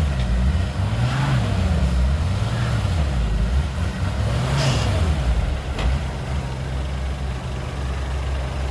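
Heavy diesel engine revving up and falling back twice, about a second in and again near the middle, then settling to a steady idle.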